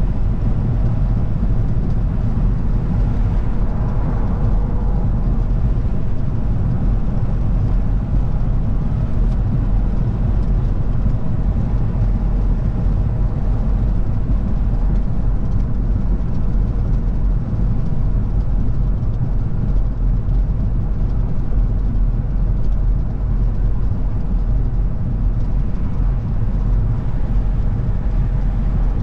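Steady low rumble of a car driving at an even speed, engine and tyre road noise together. A faint higher hum swells briefly about four seconds in.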